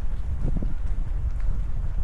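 Wind buffeting the microphone in a low, steady rumble, with soft footsteps of someone walking.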